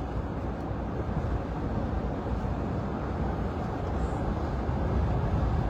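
Steady road and engine noise of a car being driven, heard from inside the cabin: an even low rumble.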